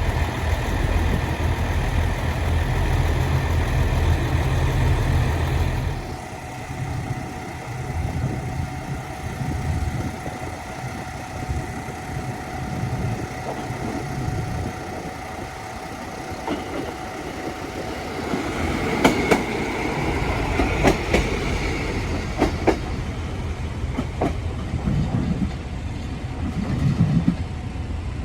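KTR700 diesel railcar at a station: its engine hums loudly, then drops to a quieter level about six seconds in. In the last third, sharp clicks of wheels over rail joints and a low rumble come in as the railcar rolls.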